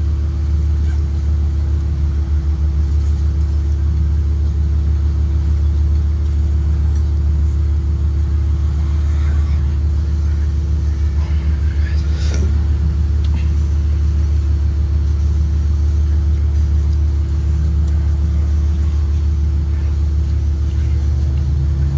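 2023 Blue Bird Vision school bus driving: a steady low rumble with a constant hum over it. There is one short click about halfway through.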